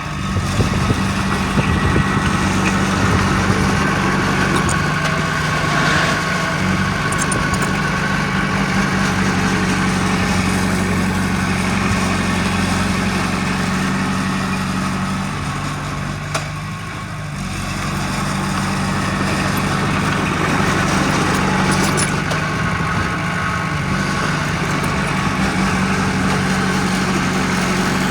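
Diesel engine of heavy earthmoving machinery running steadily, its pitch stepping down a little past the middle and the level dipping briefly before it picks up again.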